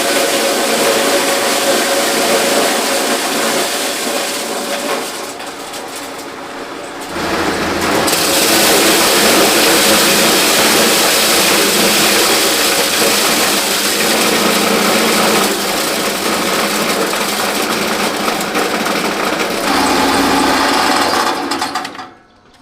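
A motor running steadily. It drops in level for a couple of seconds about five seconds in, comes back louder about seven seconds in, and cuts off suddenly near the end.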